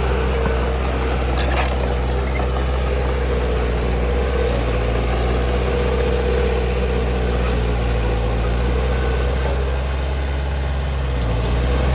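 Heavy diesel engine of earthmoving machinery running steadily at an even, low speed, with a brief knock about a second and a half in.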